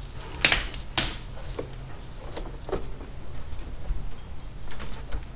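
Handling noises from work on a mower engine: two sharp clicks in the first second, then lighter taps and clicks.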